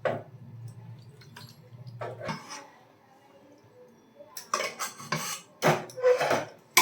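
Metal utensil scraping and clinking against a cooking pan as browned mutton and potatoes are ladled out into a pressure cooker: a few scattered clinks at first, then a quick run of scrapes and clatters in the last couple of seconds.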